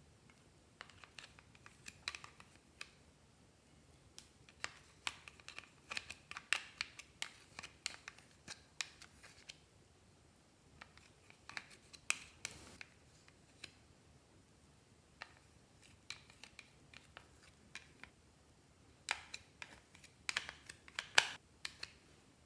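Clear slime being kneaded and squished by hand, giving bursts of small sticky clicks and pops. The bursts come in groups a few seconds long with short pauses between, the loudest cluster near the end.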